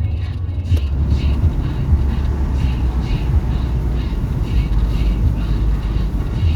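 Steady low road and engine rumble from inside a car cruising on a motorway, with a faint regular ticking about two to three times a second.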